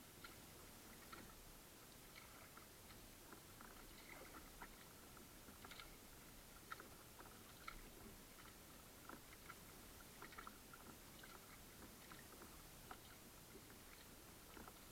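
Near silence: faint, irregular small clicks and ticks of water lapping and dripping around a kayak, over a low hiss.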